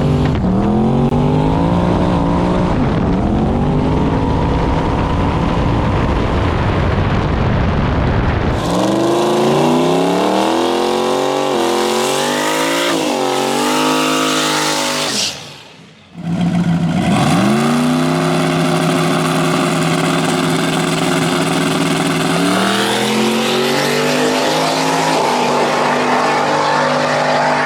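Drag car's V8 engine at the strip, revving up and down in repeated rises and falls. The sound drops out briefly about halfway, then comes back running steadily and climbs again near the end.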